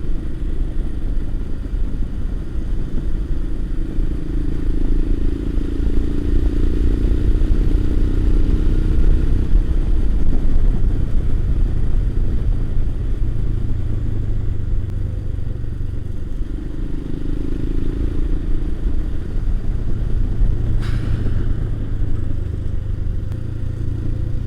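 Motorcycle engine running on the move, its pitch rising and falling gently with the throttle over a steady low rumble. A single sharp click sounds about three seconds before the end.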